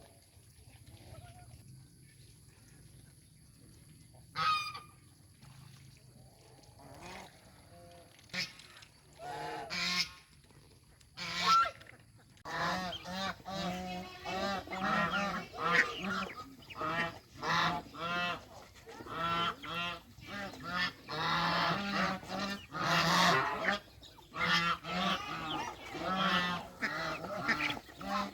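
A flock of geese honking: a few scattered calls at first, then from about halfway many honks come thick and fast, overlapping one another.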